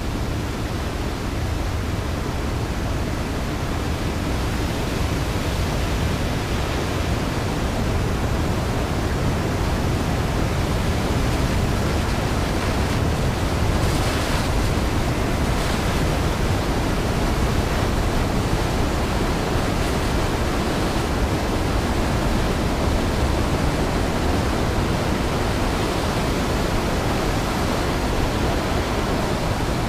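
The steady rushing of a massive waterfall, Iguazu Falls, a dense even noise heavy in the low end.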